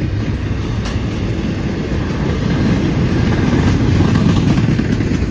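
Freight train rolling past: a steady low rumble of railcars on the track, growing a little louder about four seconds in.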